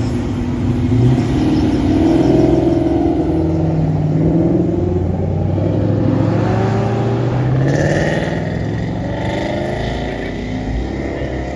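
Car engines revving and running, their pitch rising and falling as they rev, with the sound easing off slightly near the end.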